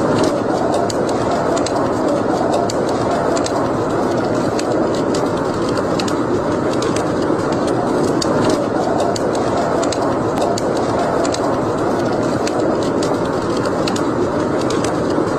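Wood fire burning in a fireplace: a steady rushing hiss with frequent small, sharp crackles and pops.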